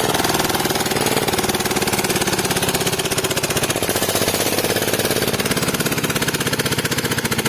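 Old Petter diesel engine driving a water pump, running steadily with a fast, even knocking beat of firing strokes.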